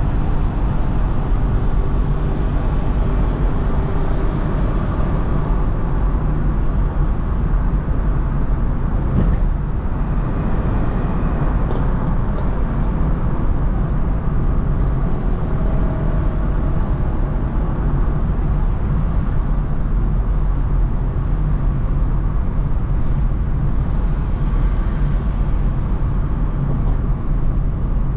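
Steady road and traffic noise from a car being driven through city streets: a constant low rumble of engine and tyres.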